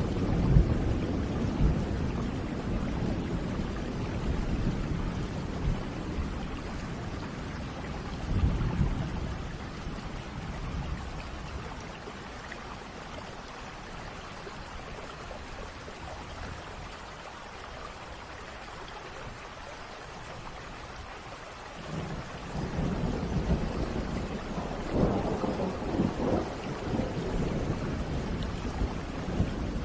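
Thunderstorm: steady rain falling, with rolling thunder. A rumble dies away at the start and a short one comes about eight seconds in. After a stretch of plain rain, a longer roll of thunder builds from about twenty-two seconds in.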